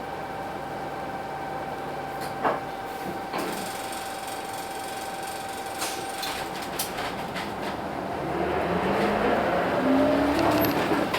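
Hino Blue Ribbon City bus with its P11C 10.5-litre diesel: a steady tone ends about three seconds in, a few mechanical clicks and knocks follow, then near the end the engine rises in pitch and grows louder as the bus accelerates.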